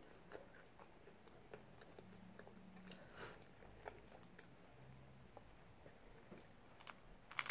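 Faint close-mouthed chewing of a soft flour-tortilla taco, with small wet mouth clicks scattered through, and a short louder crackle near the end.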